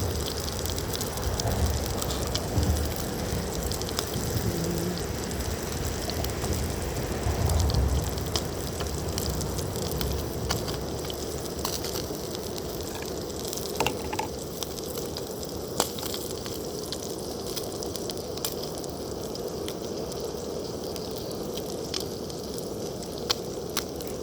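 Food sizzling in a frying pan on a camp stove: a steady hiss with scattered crackles and pops, and some low rumbling during the first several seconds.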